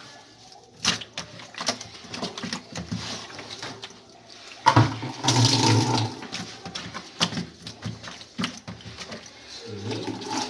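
Steam machine hissing out steam with a low pump hum beneath, in two spells about five seconds in and near the end; light clicks and knocks of handling before it.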